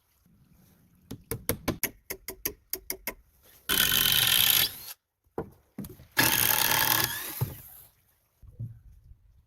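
Hammer blows on wood, about a dozen quick strikes, while a window frame is fastened into a log wall. These are followed by two loud, harsh noisy bursts of about a second each.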